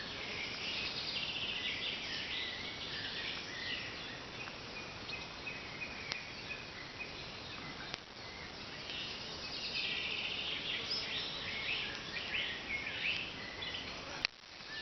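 Outdoor ambience of birds calling and insects chirping, quick trills that come and go over a steady background hiss.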